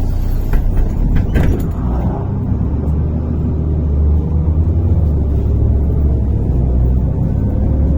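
MAZ-103 city bus heard from inside the passenger cabin while driving: a steady low engine and road rumble, with a few rattles or knocks about a second in and a faint whine slowly rising in pitch through the second half.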